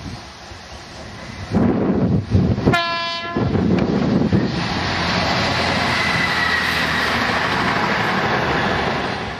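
Passing diesel passenger train: a short horn blast about three seconds in, then the loud, steady rush of the unit running past on the main line, fading near the end.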